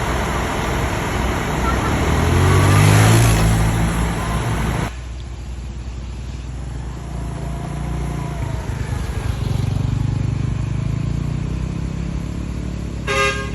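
Heavy truck engine running, swelling louder for a couple of seconds before dropping abruptly, then running on steadily. A brief high tone sounds near the end.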